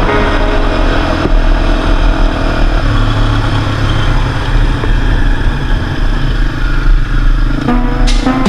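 Quad bike (ATV) engine running under way, its note shifting about three seconds in.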